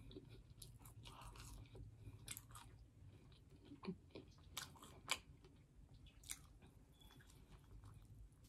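Faint close-up chewing and biting of a fried chicken sandwich and fries, with soft crunches and a few sharp wet mouth smacks scattered through, over a low steady hum.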